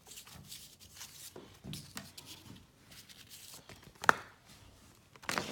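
Folded paper Tube map being handled and opened: light rustling and crackling of paper, with a sharp tap about four seconds in.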